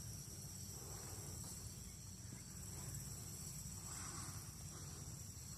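Crickets singing in a faint, steady, high-pitched chorus over a low rumble.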